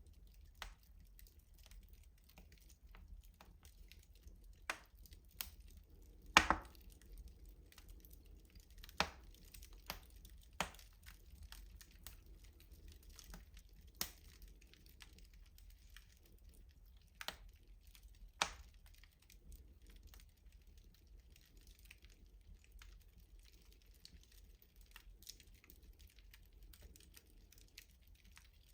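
Wood fire crackling in a rustic stove: sparse sharp pops and snaps over a faint low hiss, the loudest pop about six seconds in.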